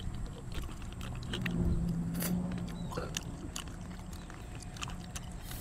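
Close mouth sounds of eating instant black bean noodles: many small clicks and smacks of chewing. A low steady hum comes in about a second and a half in and runs on to near the end.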